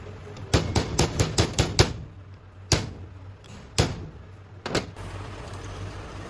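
Hammer striking metal: a quick run of about seven blows, then three single blows about a second apart, over a steady low hum.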